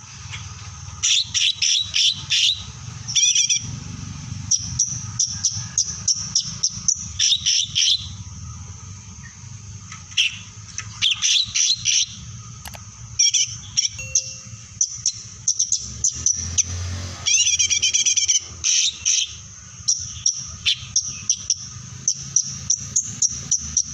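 A songbird singing vigorously in rapid, high-pitched chirping phrases that come in bursts a second or two apart, over a low steady hum.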